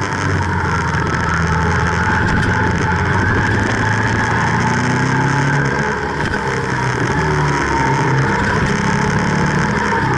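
Ducati SS900's air-cooled V-twin running at road speed under heavy wind rush, its note shifting with the throttle through the bends and dipping briefly about six seconds in.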